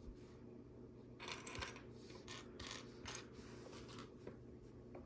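Faint rustling and a series of small, separate clicks of plastic LEGO pieces being handled.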